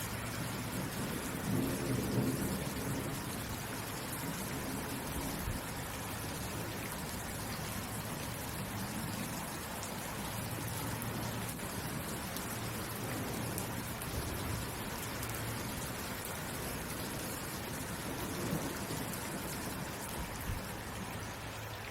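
Steady rain with low rolls of thunder, the loudest about two seconds in and a shorter one late on.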